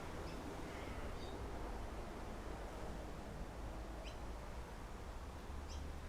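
Steady backyard wind with a low rumble, and a few brief high bird chirps scattered through it.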